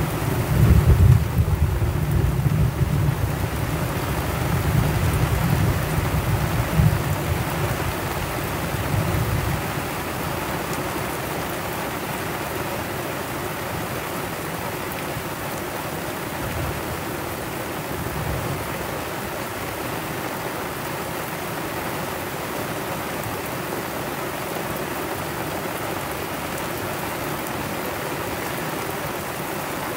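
Heavy tropical rain pouring onto the sea and the boat, a steady hiss. A deep rumble runs under it for roughly the first ten seconds, then stops.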